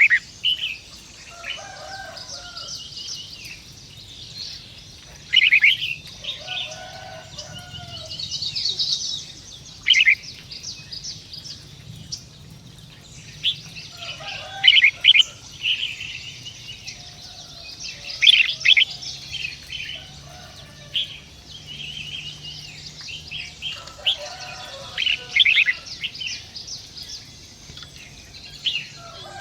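Birds chirping and calling in short clusters, with rapid high trills and quick chirps, and some lower calls between them.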